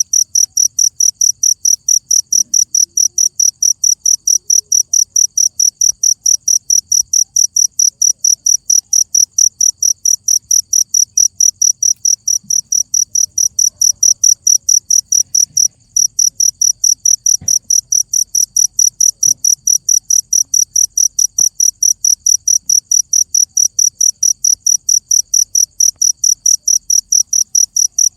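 Cricket chirping loudly in a fast, perfectly even high-pitched pulse train, broken only once by a brief gap about two-thirds of the way through.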